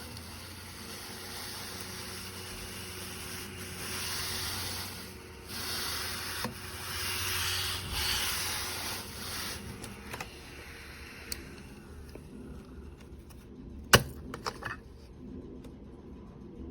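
Mini cordless desktop vacuum cleaner running with a steady hum. Its hissing and rubbing grow louder between about four and ten seconds in. A single sharp knock comes near the end.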